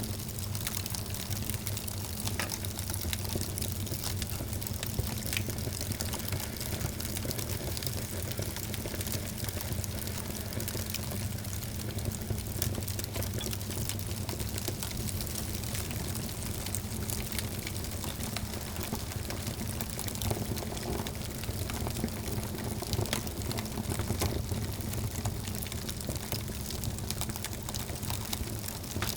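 Wood fire in a fireplace crackling steadily, with many small irregular pops and snaps over a low, even rumble of burning.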